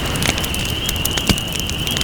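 Wood campfire crackling with scattered sharp pops, one louder pop just past the middle, over a steady wash of noise from sea waves. A steady, slightly wavering high-pitched tone runs underneath.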